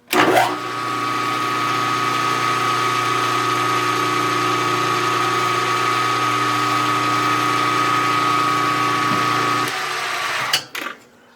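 Milling machine spindle starting up and running steadily while a boring head takes a pass in a bearing bore. It slows near the end and stops with a sharp knock.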